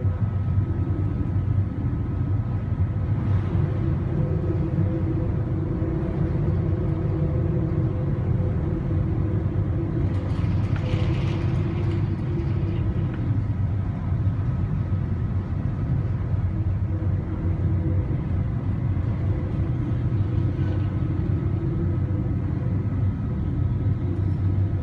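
Steady low rumble with a constant machinery hum of several held tones, as of a ship's engines heard aboard; a brief rush of hiss about ten seconds in.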